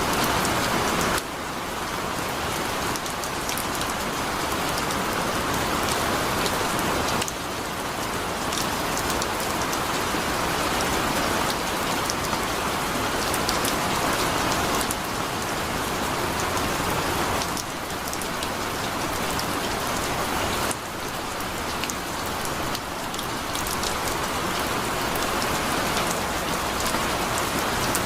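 Heavy rain falling steadily: a dense hiss with individual drops ticking through it. The loudness dips abruptly several times, then builds back up.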